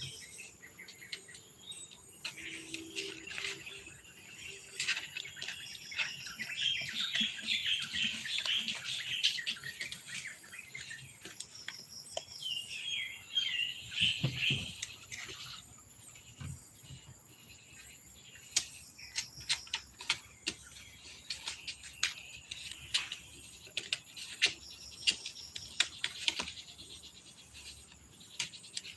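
Birds chirping in quick warbling runs, loudest about a quarter and half of the way through, with scattered short clicks and taps.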